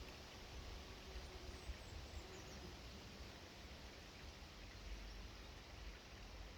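Quiet outdoor background noise with a low rumble. A few faint, high, falling bird chirps come about one to two and a half seconds in.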